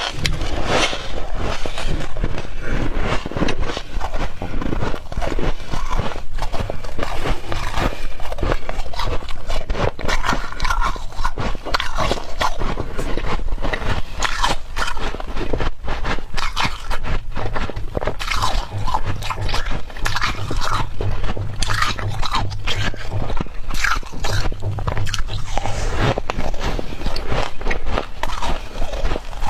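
Close-miked biting and chewing of soft refrozen humidifier frost: a continuous dense crunching, with squeaky crunches as the packed frost is compressed between the teeth.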